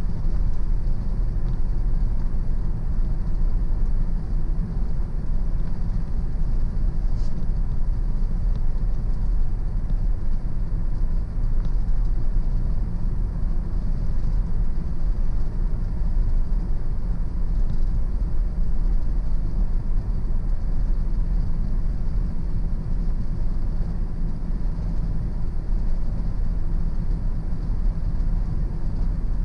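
A car driving steadily on a country road: a constant low rumble of engine and tyre noise, with no change in speed.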